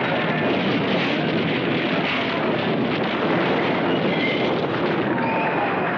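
A loud, steady wash of noise with faint, indistinct wavering sounds running through it, such as a shaken crowd or an earthquake sound effect would make.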